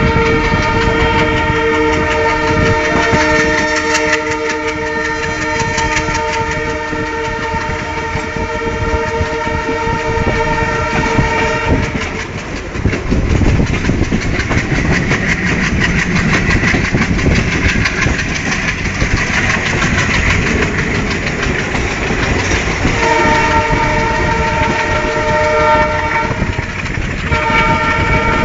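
Passenger train running, heard from inside a coach, its wheels clattering over the rails with a steady rattling rumble. A long, steady train horn sounds for about the first twelve seconds, stops, then sounds again about two thirds of the way through, with a short break near the end.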